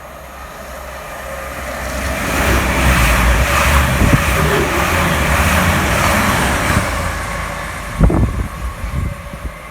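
Class 222 Meridian diesel multiple unit passing through the station, its rumble and noise building to a peak midway and then easing off. A sharp thump comes about eight seconds in.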